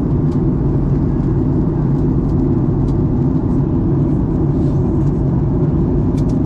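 Steady low rumble of a Boeing 737-800's engines and airflow heard inside the passenger cabin in flight, on the approach to landing.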